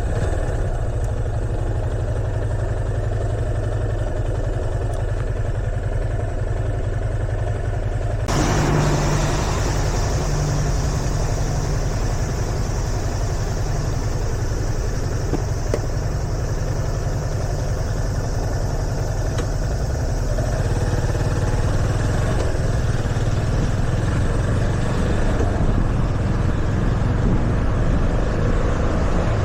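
A Yamaha FZS25's single-cylinder engine running steadily while riding. About eight seconds in, a steady rushing hiss of wind and road noise suddenly joins it and stays.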